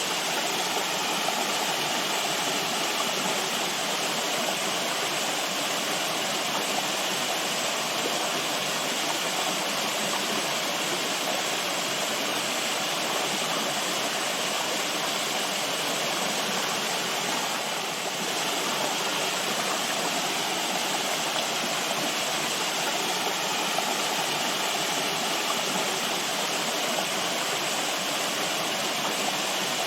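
Flowing water rushing steadily, an even, unbroken hiss with no distinct splashes or drips, like a stream or small waterfall.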